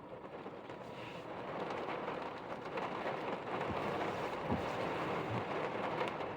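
Rain pouring down in a thunderstorm, a steady hiss that swells over the first couple of seconds and then holds.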